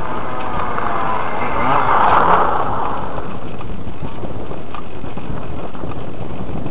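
Air rushing over a model aeroplane's onboard camera, with the JBA75 engine's note fading at the start. A louder swell of rushing noise comes about two seconds in.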